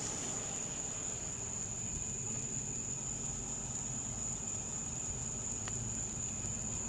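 Insects chirring in one steady, high-pitched, unbroken tone over a low background rumble.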